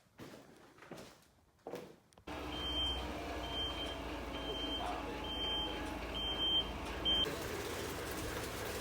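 A vehicle's reversing alarm beeping six times, about once a second, over the steady running of its engine. The alarm starts about two seconds in, after a stretch of quiet with a few light knocks.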